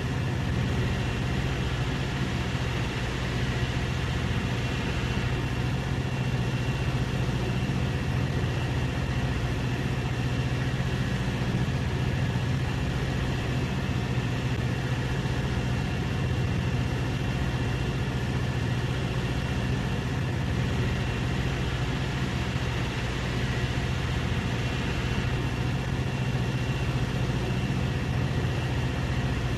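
Steady, unchanging engine drone with a strong low hum and a faint higher whine, running without any change in speed.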